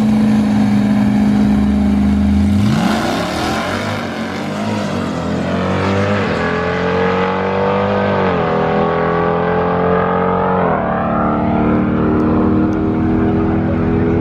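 Motor vehicle engine running hard under throttle, its pitch sweeping up about three seconds in, then dropping and climbing again in steps.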